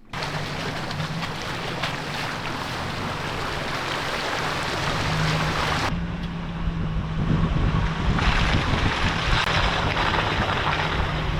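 Off-road truck driving on a rough dirt trail: a steady engine drone under a hiss of tyre and wind noise, with abrupt changes about six and eight seconds in.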